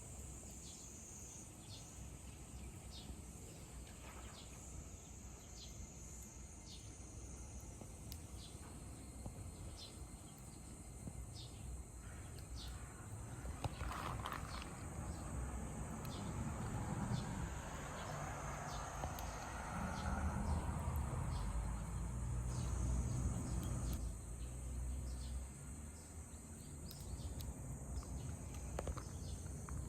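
Insects chirring in a steady high-pitched chorus, with scattered faint clicks and a low rumble underneath that grows louder midway.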